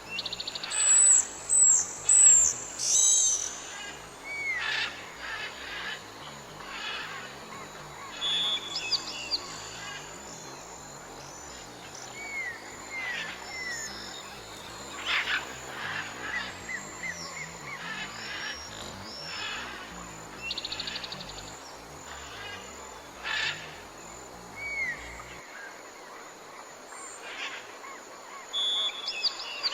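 Several songbirds chirping and calling in turn, in short separate phrases: quick downslurred notes, thin high chirps and a few buzzy trills. The loudest burst of high calls comes in the first few seconds.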